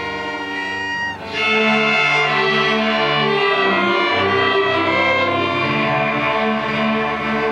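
School string orchestra playing sustained bowed notes. The sound thins out briefly about a second in, then the ensemble comes back in fuller and louder.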